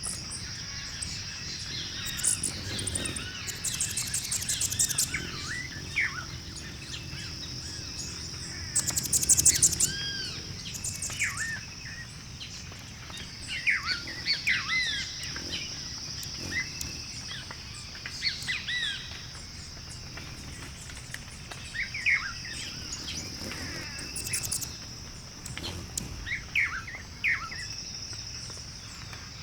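Birdsong ambience: several birds giving short chirps and arched whistled calls over a steady high hiss, with a few rapid rattling trills, the loudest about a third of the way in.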